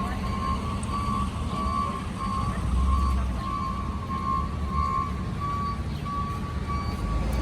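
Vehicle backup alarm beeping steadily at one pitch, about two beeps a second, over a low rumble.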